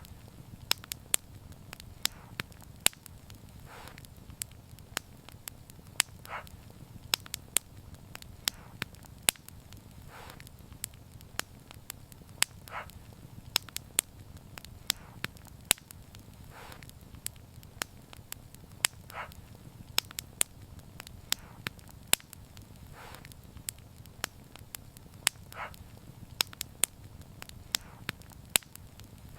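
Wood fire burning and crackling, with irregular sharp pops and snaps of burning wood over a steady low rumble of flames. A soft hiss rises and fades every couple of seconds.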